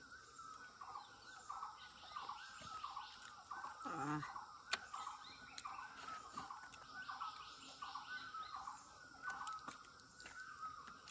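Faint bird calls: short, falling notes repeating about one and a half times a second.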